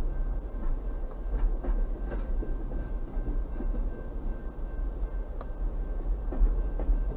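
Freight train of double-stack container cars rolling slowly past: a steady low rumble with irregular clicks and knocks of steel wheels on the rails, and a faint steady high tone.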